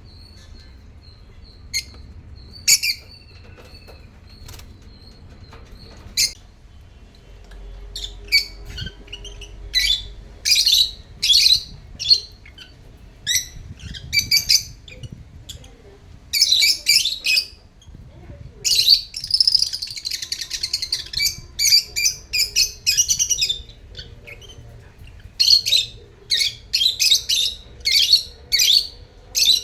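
Pet African lovebirds chirping: a few scattered sharp, high calls at first, then many birds calling together in quick bursts of chirps from about eight seconds in, thickening into continuous chatter around the middle.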